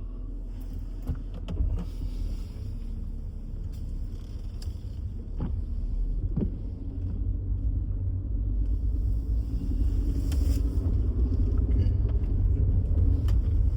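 Car driving: a low, steady engine and road rumble that grows gradually louder, with a few light clicks and knocks.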